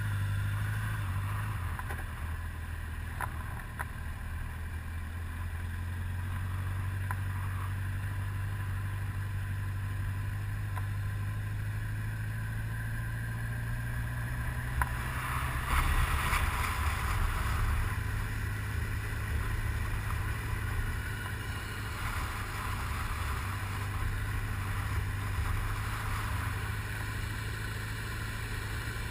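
Motorcycle engine running steadily at a cruise, with a rush of wind and road noise over it. The noise swells louder for a few seconds about halfway through.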